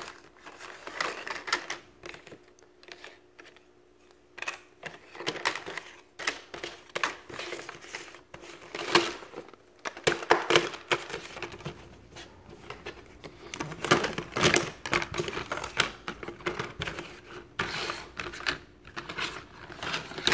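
Jigsaw puzzle pieces being rummaged through and shuffled by hand: an irregular run of small clacks, taps and scrapes.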